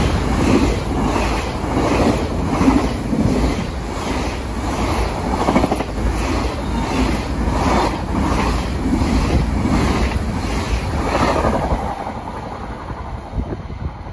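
A train passing along the tracks, its wheels clattering over the rails in a steady rhythm of about one and a half beats a second, fading near the end.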